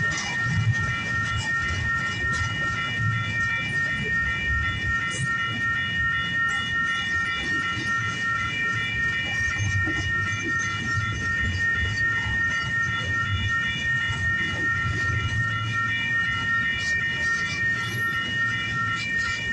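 Union Pacific intermodal freight train rolling past with a steady rumble and scattered wheel clicks, over a steady high-pitched ringing tone that pulses faintly.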